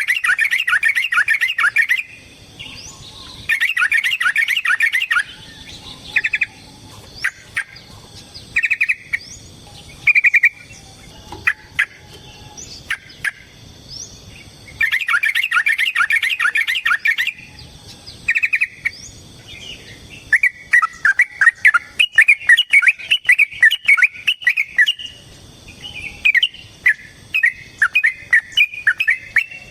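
Yellow-vented bulbul (trucukan) singing: bursts of fast chattering notes lasting a second or two, separated by short single phrases, then a long run of quickly repeated notes through the second half.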